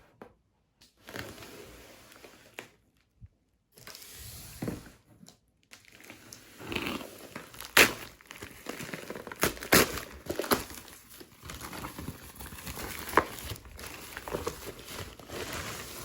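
Packaging being handled and opened: irregular crinkling and rustling, with scattered sharp clicks and knocks, the loudest about eight and ten seconds in.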